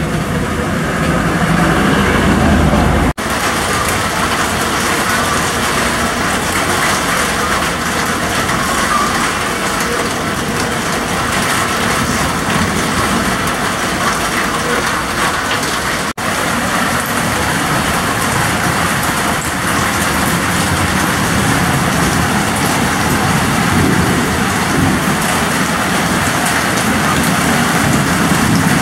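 Heavy rain pouring down in a steady, dense hiss, with a low rumble under it for the first three seconds. The sound cuts out for an instant twice, about three seconds in and about sixteen seconds in.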